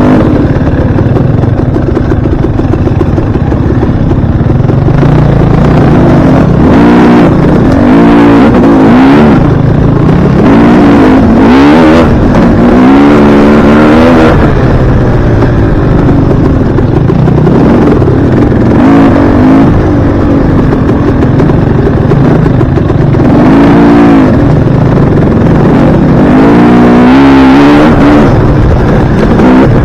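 Dirt bike engine under way, its pitch climbing and falling again and again as the throttle is opened and closed.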